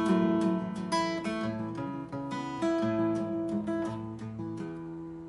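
Acoustic guitar strummed in a song's introduction, several strummed chords ringing out, then the last chord fading away near the end.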